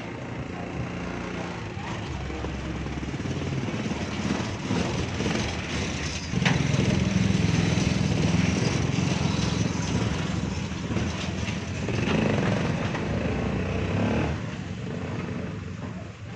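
A small vehicle engine running. It gets louder about six and a half seconds in, with a click, and eases off near the end.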